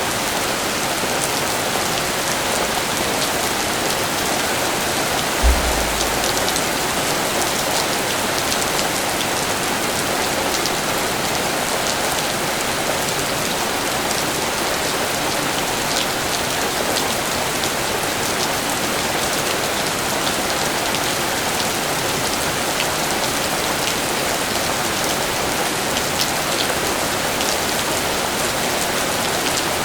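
Steady rain falling and pattering on surfaces, with now and then a single louder drop ticking out of the hiss. A brief low thump about five seconds in.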